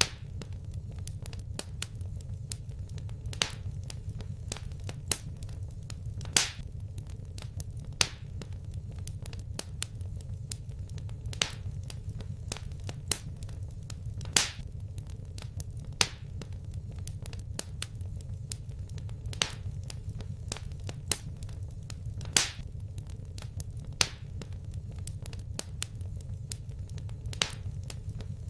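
Wood fire crackling in a fireplace: sharp pops and snaps every second or two, among many fainter ticks, over a steady low rumble.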